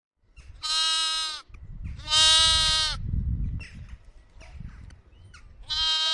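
A farm animal bleating three times. Each call is high-pitched, lasts under a second and drops in pitch at the end. A low rumble sits under the second call.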